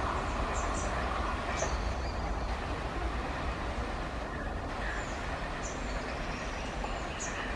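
Passenger train coaches rolling away at speed along the track. A steady rumble of wheels on rail slowly fades, with a few short high chirps over it.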